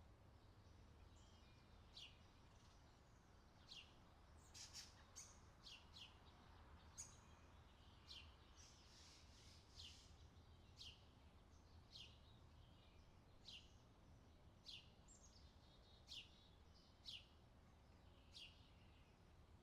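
Faint outdoor summer ambience: small songbirds giving short, high, falling chirps about once a second, a few in quick runs, over a steady low hum.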